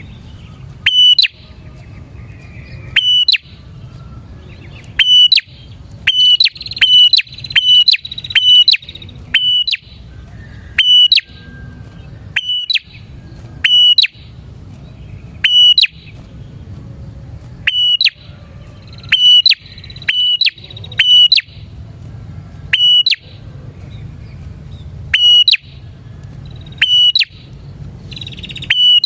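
A prinia (prenjak) calling vigorously: loud, sharp, high calls repeated about every second or two, some coming in quick runs of two or three.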